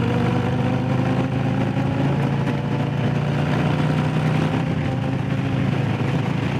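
Harley-Davidson Low Rider S Milwaukee-Eight V-twin running steadily while the bike is ridden, its pitch easing slightly lower as the bike slows, with wind and road noise.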